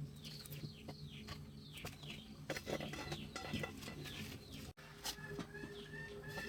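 Small birds chirping with repeated short falling calls, over a steady low hum, with a few scattered knocks in the middle.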